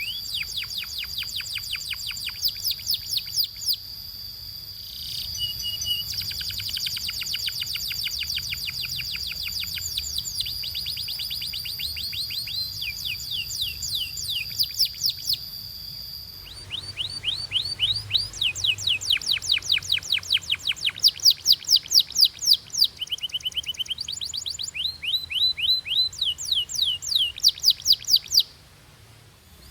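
Canary singing in fast trills of repeated sweeping notes, several per second, changing from one trill type to the next, with a steady high whistle held under the first half. After a short break about halfway, a second bout of loud trills follows and stops shortly before the end.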